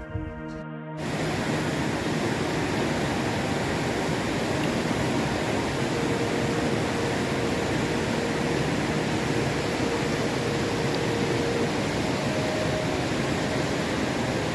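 A steady, even rushing noise that starts about a second in as music cuts off, with a faint steady tone through the middle.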